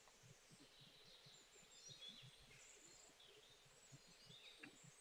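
Near silence: faint background hiss with a few faint, high bird chirps scattered through it.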